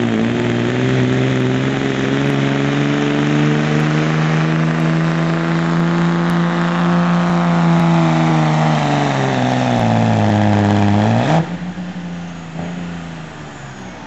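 Dodge diesel pickup at full throttle pulling a weight sled, its engine held high for several seconds. Its speed then sags as the sled's load pulls it down, and the throttle cuts off suddenly near the end, dropping to a much quieter idle.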